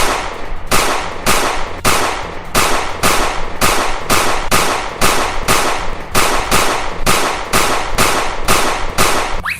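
A steady, rapid run of loud sharp bangs, about two and a half a second, each followed by a short decaying hiss, like a string of firecrackers or repeated gunfire.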